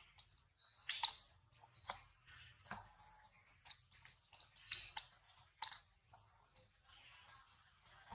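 Birds chirping: short, high notes repeating roughly once a second, mixed with sharp clicks, the loudest of them about a second in and near the middle.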